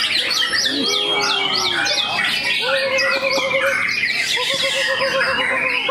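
White-rumped shamas singing in competition, several songs overlapping. A run of repeated down-slurred whistles comes in the first second or so, and lower pulsed trills come from about halfway through.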